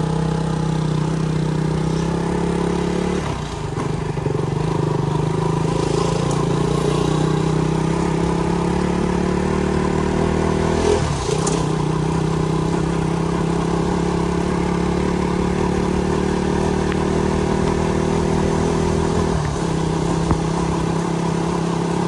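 Motorcycle engine running under way while riding, its note briefly dipping and picking up again three times.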